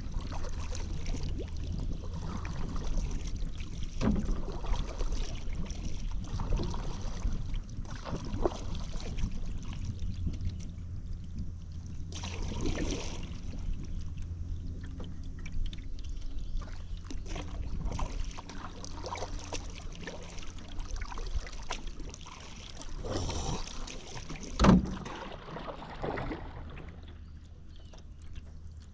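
Paddle strokes pulling through river water with splashing and dripping, over a steady low rumble. A single sharp knock comes about 25 seconds in.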